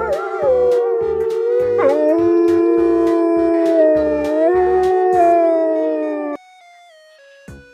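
A dog howling in one long drawn-out howl over background music with a steady beat; the howl wavers and breaks briefly in pitch about two seconds in and cuts off suddenly near the end, leaving the music alone.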